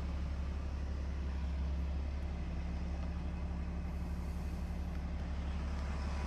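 A RAM 3500's 6.7-litre Cummins inline-six turbo diesel idling steadily with a deep, even hum.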